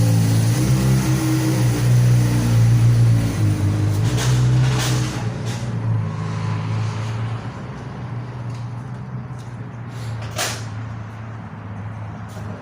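A vehicle engine running steadily, which fades away through the middle and second half, with a few sharp hissing clicks about four seconds in and again near the end.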